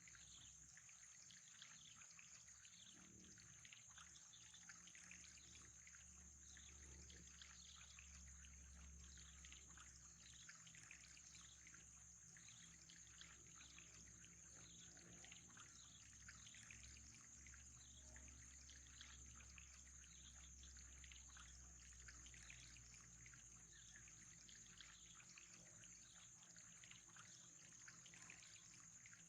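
Faint, steady trickling water, a fine patter of small splashes with a constant high hiss and low hum beneath.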